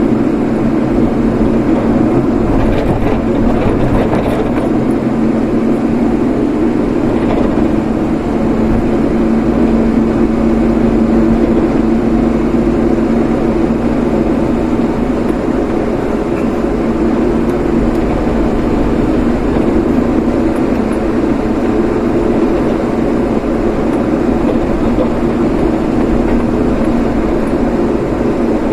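Steady driving noise of a moving vehicle: an even engine drone with road and tyre rumble, holding level throughout.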